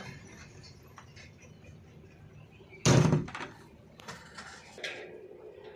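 One loud thump or slam about three seconds in, followed by a few fainter knocks.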